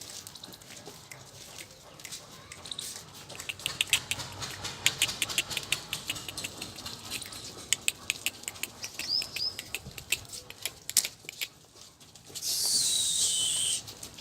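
Irregular tapping and clicking, then near the end a loud, high whistle that glides downward.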